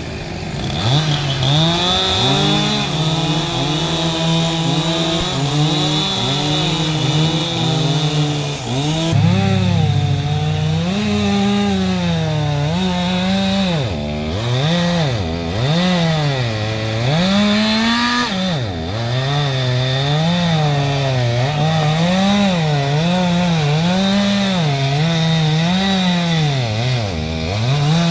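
Chainsaw cutting wood. The engine runs continuously; its pitch first holds fairly steady, then from about a third of the way in swings up and down over and over as the chain bites and frees, dropping sharply a few times under load.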